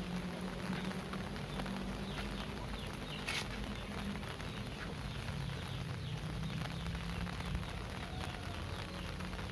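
Heavy rain falling steadily, with many separate drips and splashes and a brief sharper sound about three seconds in.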